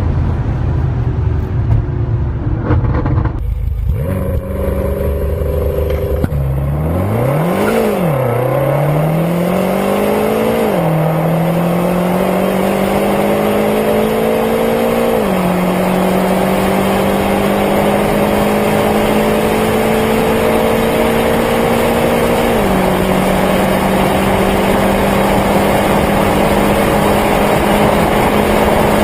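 Twin-turbo V8 performance car accelerating hard at full throttle. A quick rev rises and falls near the start, then the engine note climbs steadily through long gears and drops sharply at each upshift, three times.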